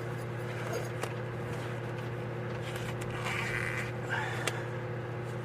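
A steady low mechanical hum, with two faint sharp clicks and some light rustling.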